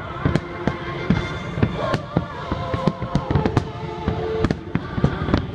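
Aerial fireworks bursting in a rapid, irregular string of bangs and crackles, several a second, with the show's music playing underneath.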